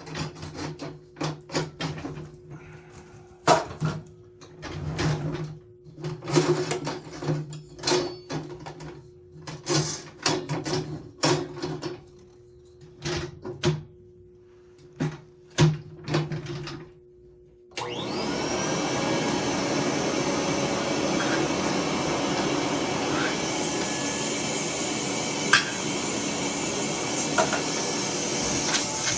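Irregular metal clinks and scrapes of hand work on boiler parts. About two-thirds of the way through, a soot vacuum switches on with a short rising whine and then runs steadily, with a few knocks as the nozzle hits metal.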